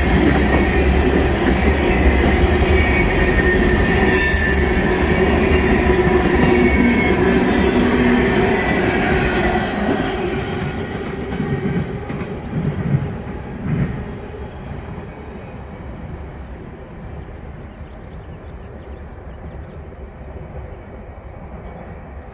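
Empty steel tank cars of a freight train rolling past, their wheels rumbling on the rails with steady squealing tones. About ten seconds in the sound falls away as the end of the train moves off, with a few clanks near the middle, leaving a faint, fading rumble.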